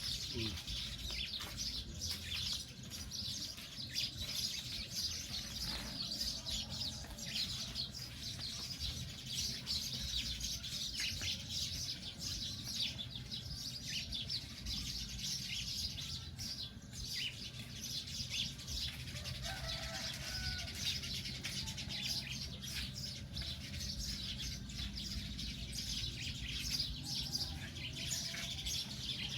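Small birds chirping and twittering, many short high calls overlapping with no break, over a low steady hum.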